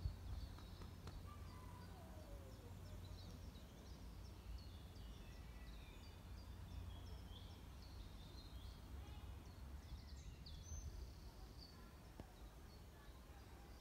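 Songbirds singing, a steady run of short chirps and trills that thins out near the end, over a faint low steady rumble.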